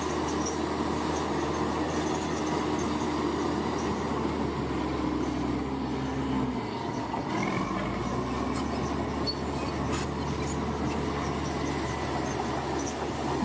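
Bulldozer's diesel engine running steadily under work, its note dipping briefly about halfway through, with faint clanks and squeals from the machinery.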